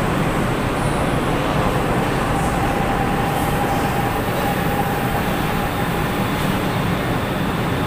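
Light-rail train cars running past at close range: a steady rumble of wheels on rail, with a faint whine in the middle.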